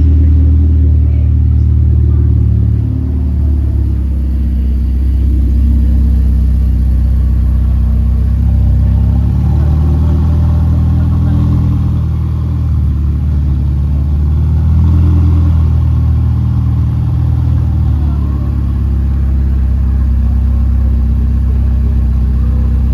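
A car engine running with a steady low rumble, its note rising and falling slightly.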